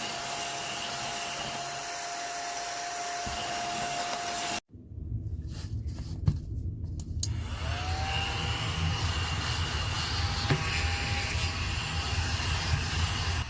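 Small battery-powered desktop vacuum cleaner running with a steady whine and hiss, cut off abruptly about a third of the way in. A deeper motor hum follows, with a whine that rises and then settles, and a few clicks.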